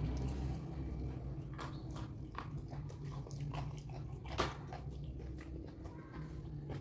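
Close-miked chewing and biting of crunchy raw food: irregular wet crunches and clicks, with one sharper crunch a little past the middle, over a steady low hum.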